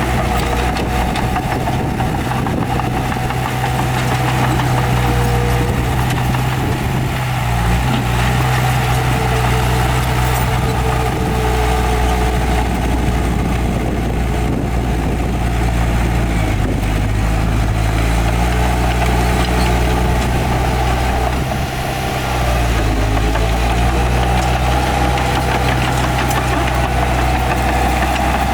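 Heavy diesel earthmoving machinery running steadily, with the engine note shifting in pitch a little over halfway through and dipping briefly soon after.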